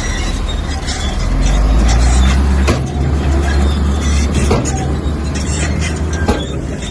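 Komatsu bulldozer's diesel engine working under load, swelling louder about a second and a half in, with a few sharp metallic clanks.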